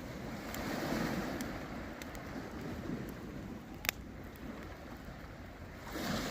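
Campfire crackling, with a few sharp pops of burning wood, the loudest near the four-second mark. Underneath is a rushing noise that swells about a second in and again near the end.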